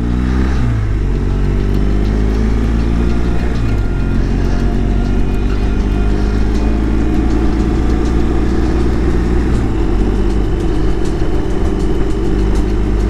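BMW boxer-twin motorcycle engine pulling along a climbing mountain road, its note rising and then dropping back twice, about a third of the way in and again later. Heavy wind rush on the bike-mounted camera's microphone runs under it.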